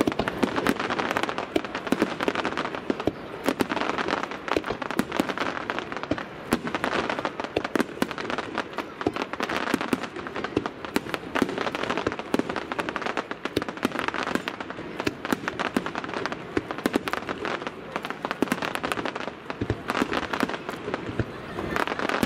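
Aerial fireworks shells bursting in a rapid barrage: many sharp bangs and crackles a second, overlapping without a break.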